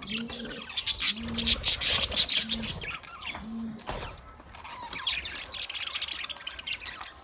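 Australian parrots chattering, with rapid high chirps and squawks throughout. During the first four seconds a low, flat, coo-like call repeats about once a second.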